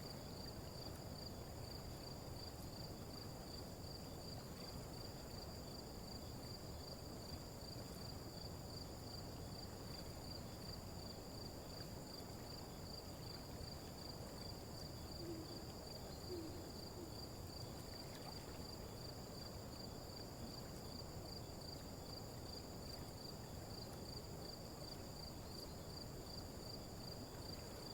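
Faint, steady night-time insect chirring, with two short low hoots about halfway through.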